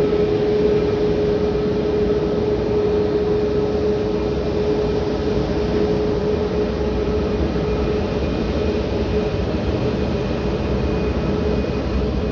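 A Boeing 737 running on the ground during pushback: a loud, steady jet rumble with a constant whine held at one pitch, unchanging throughout.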